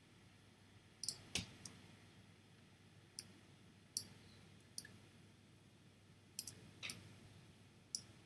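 Computer mouse clicking about a dozen times at irregular intervals, some in quick pairs, while painting with a brush tool in photo-editing software, over a faint low hum.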